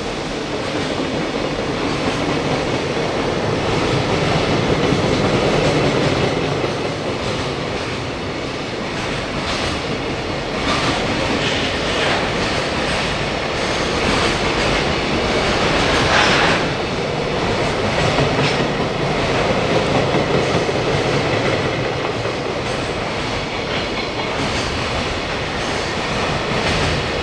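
Train running along the track with a steady rumble, its wheels clacking over rail joints, most plainly about halfway through.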